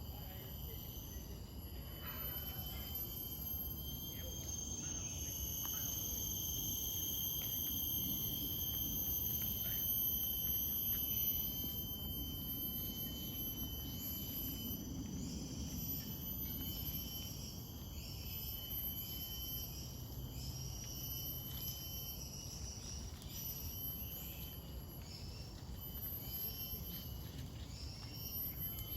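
Tropical forest insects shrilling in several steady high tones, with a pulsing insect call repeating about once a second through the second half. A low rumbling noise runs underneath.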